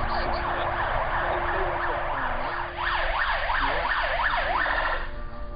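Ambulance siren on a fast yelp, its pitch sweeping up and down about three or four times a second, then cutting off near the end.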